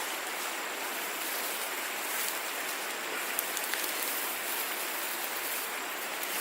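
Steady hiss of water, even and unbroken, with a few faint ticks.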